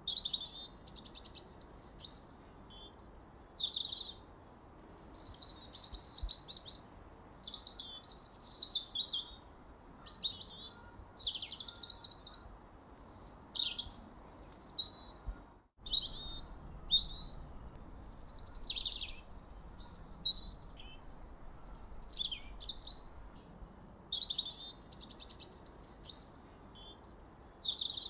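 Songbirds singing and chirping continuously in a dense chorus of varied short high-pitched calls and trills over a faint steady background hiss. The whole sound cuts out for an instant a little past halfway, then resumes.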